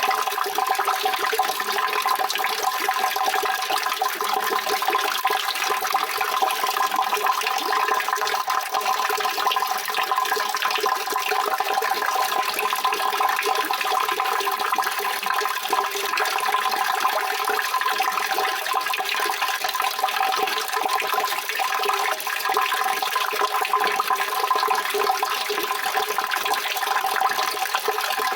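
Steady rushing water running without a break.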